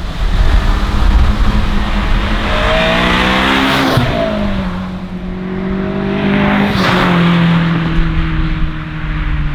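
Honda S2000 with its stock catalytic converter and HKS 75 mm cat-back exhaust driving past under throttle. The exhaust note drops sharply in pitch as it goes by, about four seconds in and again about seven seconds in.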